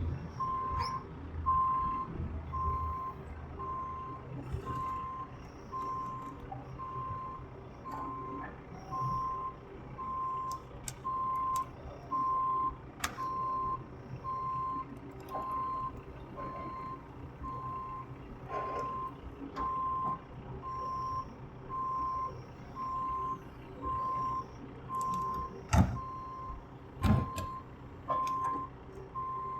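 Vehicle reversing alarm beeping steadily, about one beep a second, over a low machine rumble, with a few sharp knocks near the end.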